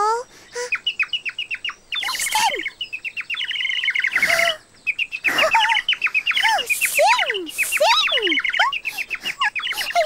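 Birdsong: many quick, high chirps and twitters, with several whistled notes sliding downward mixed in.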